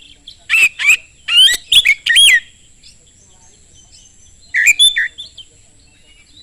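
Oriental magpie-robin singing a fast run of loud whistled and gliding notes for about two seconds, then a shorter phrase near five seconds in. A faint steady high-pitched whine and faint chirps sit underneath.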